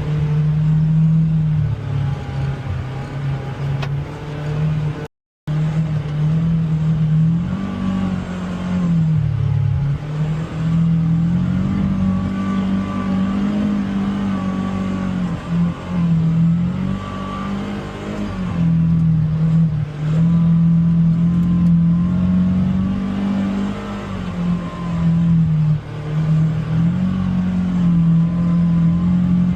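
Polaris Xpedition UTV engine running under load on a trail, its pitch rising and dipping repeatedly as the throttle comes on and off. The sound cuts out completely for a moment about five seconds in.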